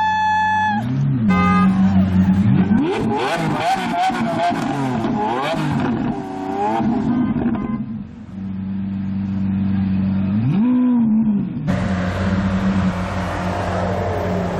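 Supercar engines idling and being revved in repeated throttle blips, the revs sweeping up and down quickly, loudest a few seconds in, with one more rev blip near the end.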